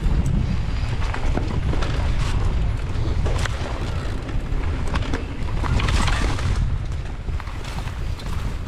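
Mountain bike ridden fast along a trail: wind buffeting the microphone as a steady low rumble, with the tyres on dirt and the bike rattling in many short sharp clicks, and a rush of tyre and trail noise swelling about six seconds in.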